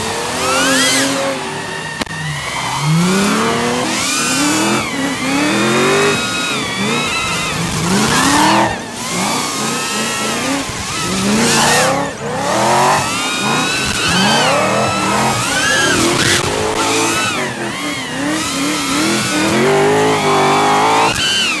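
Drift cars' engines revving hard again and again, the pitch rising and falling, with tyre squeal mixed in.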